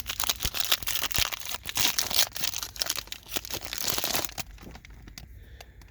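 Wrapper of a trading card pack crinkling and tearing as it is ripped open. The crackling is dense for about four seconds, then dies down to faint rustling.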